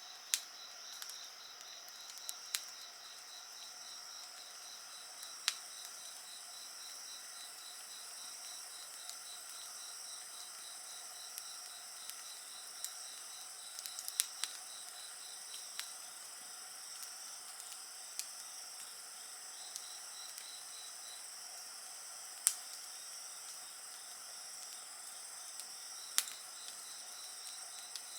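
A steady chorus of chirping insects, several high trills overlapping, one of them pulsing rapidly. A handful of sharp pops and crackles from a wood fire break in now and then, the loudest about 22 seconds in.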